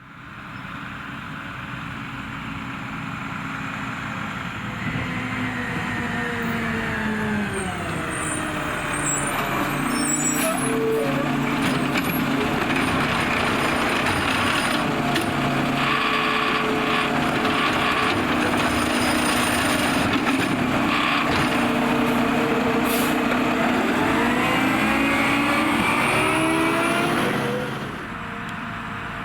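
Mack LR garbage truck with a McNeilus ZR side-loader body, its engine running throughout. The engine's pitch falls over a few seconds early on, then runs steady and louder for a long stretch. Near the end the pitch climbs, then it cuts back suddenly.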